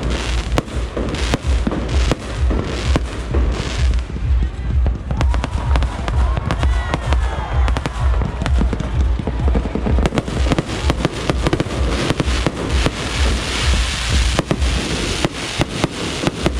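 Fireworks display: a dense, continuous run of bangs and crackling over a low rumble, with several rising whistles about five to eight seconds in.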